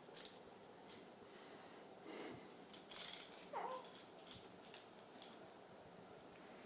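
Faint rustling and small clicks, as of fabric and handling near the microphone, with a brief falling squeal from a baby about three and a half seconds in.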